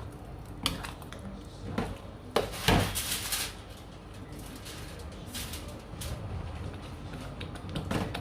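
Spatula scraping and knocking against a pan while stirring a thick chili paste being stir-fried, in irregular strokes, the loudest run about two and a half to three and a half seconds in.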